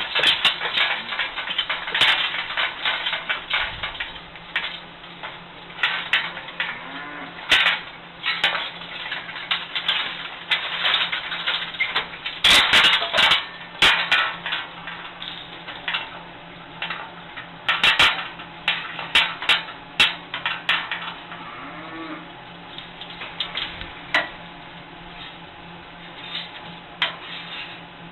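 Cattle in a barn: irregular metallic clanks and knocks, with a cow mooing low a couple of times, over a steady low hum.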